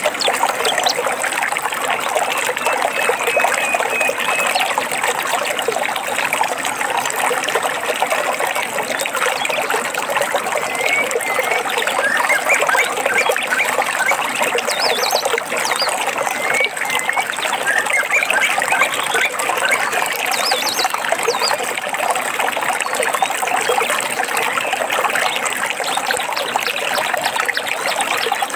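A small stream trickling and splashing steadily, with birds chirping and calling over it now and then, mostly in the middle stretch.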